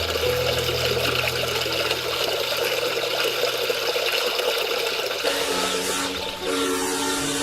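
Rushing water running steadily under soft background music. About five seconds in the water fades and the music comes forward.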